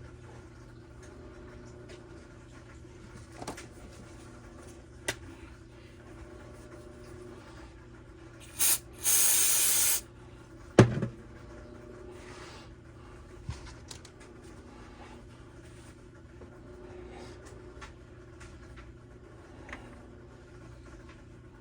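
Two hissing sprays, a brief one and then one lasting about a second, followed shortly by one sharp knock, over a steady low hum with small clicks of parts being handled.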